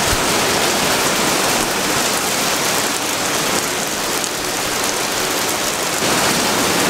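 Heavy thunderstorm downpour: rain pouring steadily, a dense even hiss.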